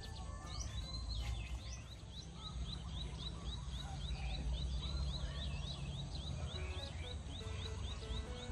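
A bird calling a fast, even run of short rising chirps, about four a second, starting about a second in, over a steady low rumble.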